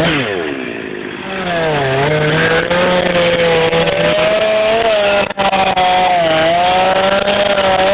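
A chainsaw running at high revs. Its pitch dips about a second and a half in, then holds fairly steady with small wobbles. There is a sharp crack about five seconds in.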